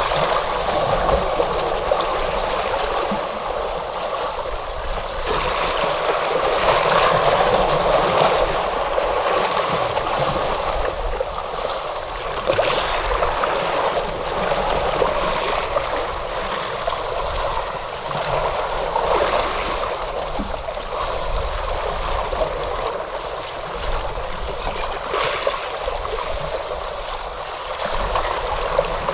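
Ocean waves washing continuously, the rush of water swelling and easing every few seconds.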